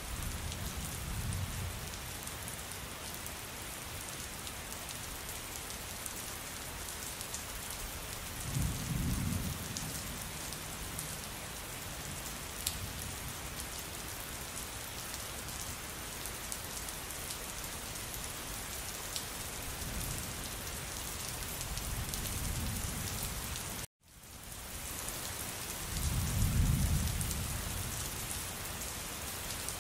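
Steady heavy rain falling, with several low rolls of distant thunder, the loudest near the end. Partway through, the sound cuts out for an instant and then fades back in.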